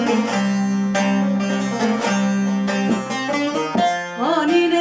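Saz (bağlama) played alone between sung verses: quick plucked melody notes over a steady drone string.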